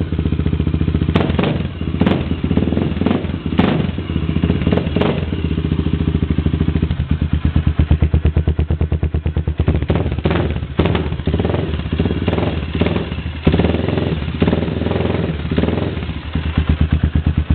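1997 Suzuki DR350's single-cylinder four-stroke engine running loud through an FMF Ti-4 exhaust, with a fast, steady pulse and occasional sharp cracks.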